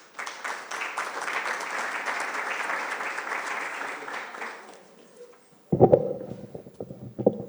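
Audience applauding for about four and a half seconds, then dying away. Near the end come a few loud, deep thumps and knocks.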